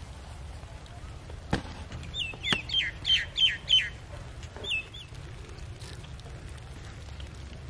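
A bird calling: a quick run of about six sharp, falling chirps starting about two seconds in, then two more chirps about a second later. A sharp click comes just before the chirps, over a low rumble.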